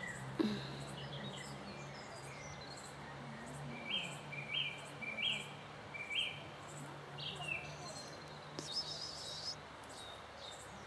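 Songbirds calling and singing: scattered short chirps, a run of four short repeated notes in the middle, and a warbling phrase near the end, over a faint steady low hum.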